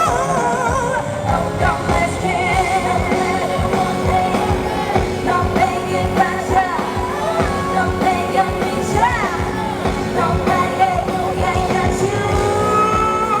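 A female pop singer's live vocal over a loud amplified band backing track, her voice sliding and bending through a sung line over a steady beat, heard through the concert PA.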